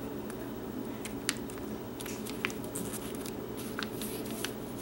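Sheet of paper being folded and creased by hand: scattered light crinkles and ticks, with a short rustle near the end.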